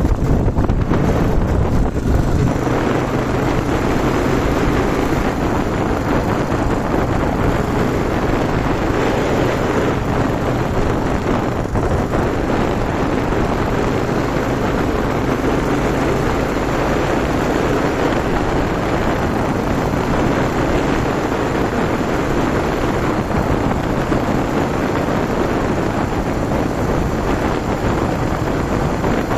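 Yamaha TW200's single-cylinder four-stroke engine running while the motorcycle is ridden along, mixed with steady wind rush on the microphone.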